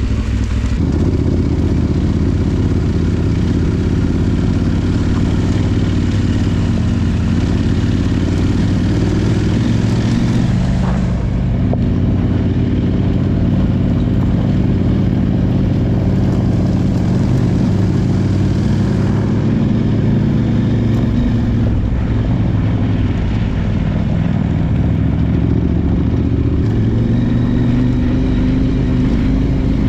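Parallel-twin adventure motorcycle engine running under way, its note rising and falling with the throttle over a continuous rush of noise.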